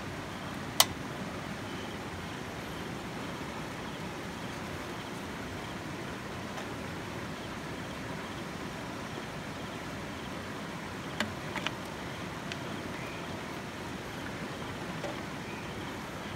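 Creek water running steadily. There is one sharp click about a second in and a few lighter clicks around eleven to twelve seconds in.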